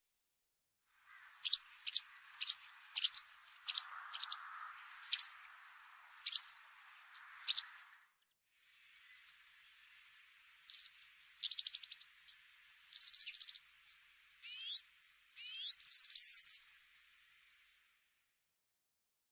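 Bird calls: a run of short, sharp, high notes about half a second apart, then after a brief break a livelier mix of buzzy trills, chirps and rising whistles.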